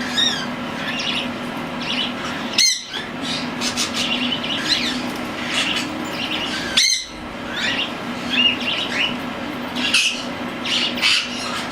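Young cockatiels chirping and calling, with two louder calls of quickly repeated notes about three and seven seconds in, over a steady low hum.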